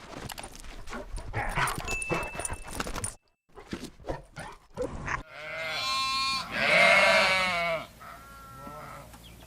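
Bleating, with two long wavering calls back to back a little past halfway, then a shorter, fainter call. Irregular clicks and rustling come before the calls, broken by a brief gap.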